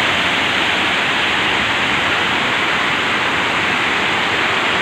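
Large, wide waterfall pouring down: a loud, steady rush of falling water.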